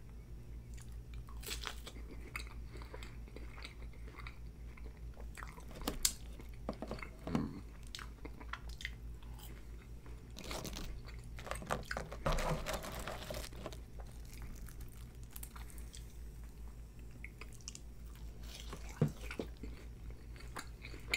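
Close-miked mouth sounds of chewing and biting into a sauce-dipped McDonald's chicken nugget, with wet smacks and occasional crunches. The chewing grows denser and louder for a couple of seconds about halfway through. A low steady hum runs underneath.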